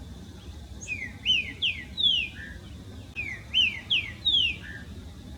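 A songbird singing two matching phrases about two seconds apart. Each phrase is four quick slurred whistled notes that step up in pitch, ending with one lower, shorter note.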